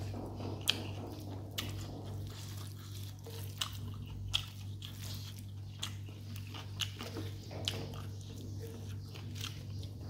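Close-up chewing of a mouthful of rice and chicken: wet, crunching chews with sharp mouth clicks roughly once a second, over a steady low hum.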